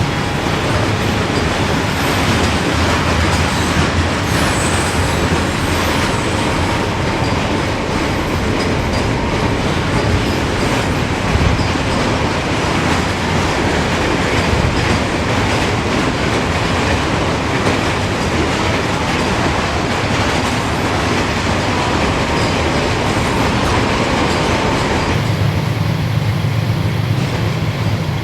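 Norfolk Southern freight train rolling past: steady rumble and rattle of cars on the rails, with a faint wheel squeal now and then. A deeper low drone joins near the end.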